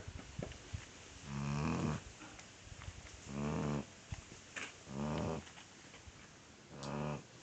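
Chocolate Labrador puppy snoring in its sleep: about four snores in a steady rhythm, one every second and a half or so, each about half a second long, with faint clicks between them.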